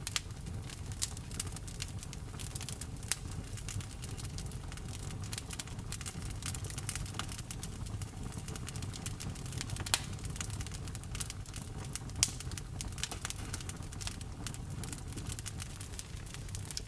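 Wood fire crackling, with steady irregular snaps and a few louder pops, over a low steady rumble.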